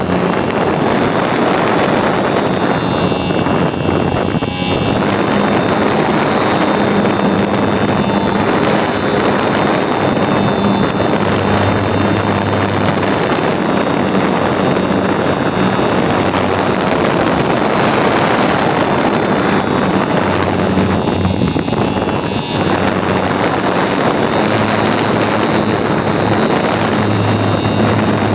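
Model airplane's motor and propeller running steadily, heard up close from an iPod taped under the plane's belly, with wind rushing over the microphone. A steady whine sits over the rush, its pitch shifting slightly now and then.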